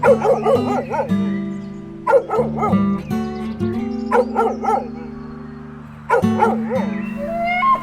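A dog barking in four short bursts of quick, high yaps, over background guitar music.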